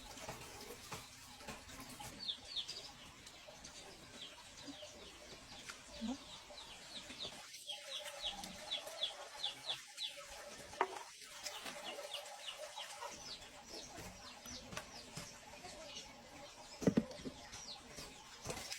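Birds chirping in many short, high, quick calls, likely chickens or chicks. A few sharp knocks come through, the loudest near the end.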